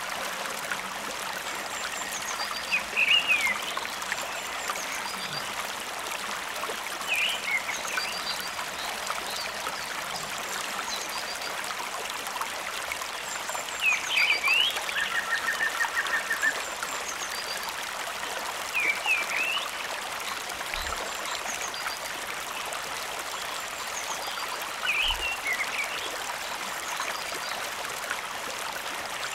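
Steady rush of running water from the falls' stream, with a short chirping animal call repeated every four to six seconds and one brief buzzy trill about halfway through.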